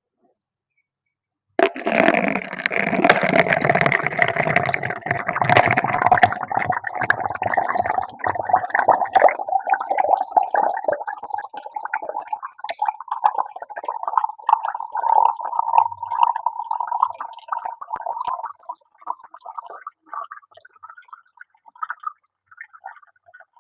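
Water flowing, starting suddenly in a strong rush with a tone that rises slowly in pitch, then thinning out into broken gurgles and trickles near the end.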